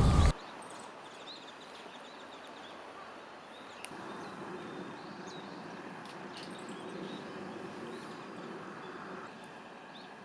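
Quiet outdoor ambience: a steady low hiss with faint, scattered bird chirps and a single sharp tick about four seconds in.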